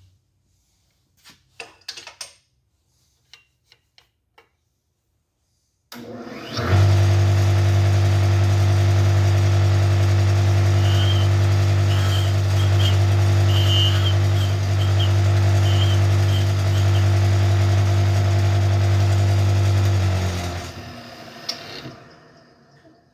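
Connecting-rod cap cutter motor switching on about six seconds in and running with a loud, steady hum, then spinning down and stopping near the end. A few light clicks come before it starts.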